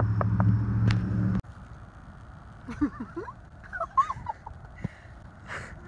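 A car engine idling steadily with several sharp taps, cutting off suddenly about a second and a half in. Then a woman's short, breathy squeals and gasps of surprise.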